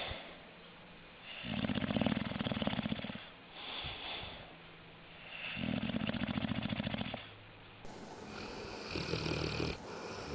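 A dog snoring: two long rattling snores about four seconds apart, each followed by a softer breath out, then a shorter, fainter snore near the end.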